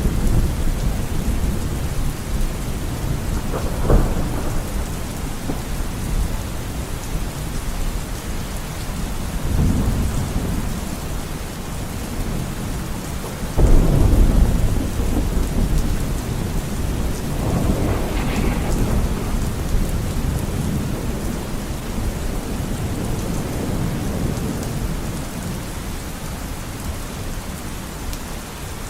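Steady rain with several low rolls of thunder, the loudest about halfway through.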